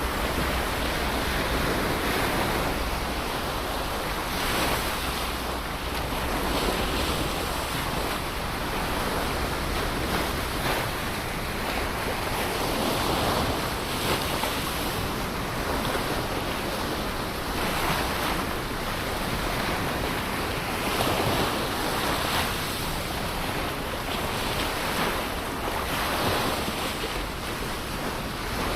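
Ocean surf: waves breaking and washing on a shore in a continuous rush that swells and eases every few seconds.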